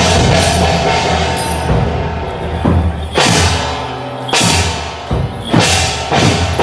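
Loud temple-procession percussion music: steady drumming, with three big crashes that ring on in the second half, about a second apart.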